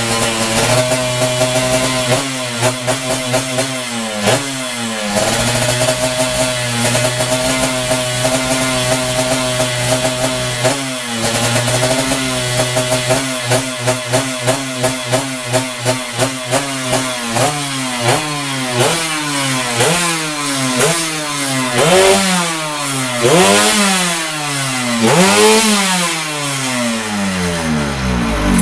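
116cc two-stroke drag-race motorcycle engine idling and being blipped on the throttle during carburettor tuning: a steady idle broken by short revs, a quick run of blips in the middle, then bigger revs that climb and fall. The engine winds down near the end.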